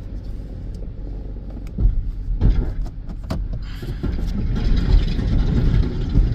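Plow truck driving off: steady low engine rumble with road noise and a few knocks, the noise growing louder about four seconds in.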